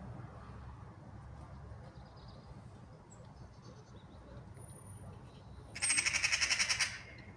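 Eurasian magpie giving its chattering alarm call: one rapid, harsh rattle about a second long, near the end, over a faint low rumble.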